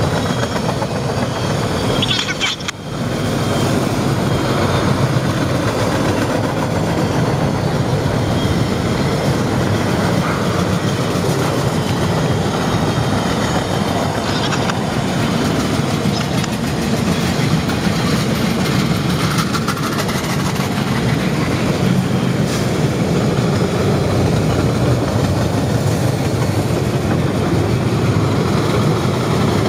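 Freight train cars rolling past: a steady rumble and rattle of steel wheels on the rails. The sound dips briefly between two and three seconds in.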